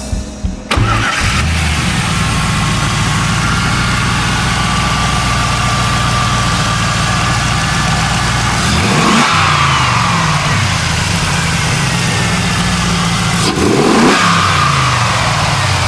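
1999 Pontiac Trans Am WS6's 5.7-litre LS1 V8 idling steadily, revved briefly twice, the pitch rising and falling back each time.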